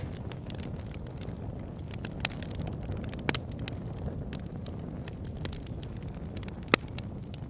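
Wood fire burning in a fireplace: a steady low rush of flames with frequent small crackles and a few louder pops, the loudest about seven seconds in.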